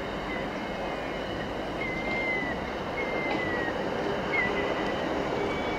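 Trains on a curved electrified line: a TransPennine Express Class 397 electric multiple unit approaching beside a train of empty freight flat wagons, with a steady rumble of wheels on rail. Several short, high-pitched wheel squeals sound on the curve, each sliding slightly down in pitch.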